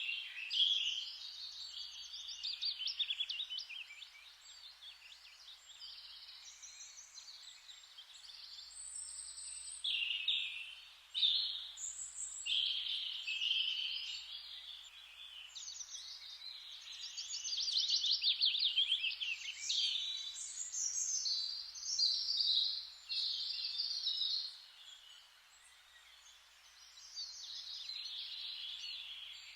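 Several birds chirping and trilling together over a faint steady hiss of forest ambience. The calls overlap and swell and fade in waves.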